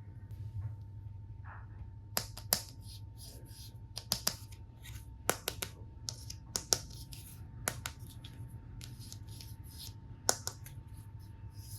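Hard plastic toy tool pieces being handled: a series of sharp clicks and taps, many in close pairs, with soft plastic rustling between them.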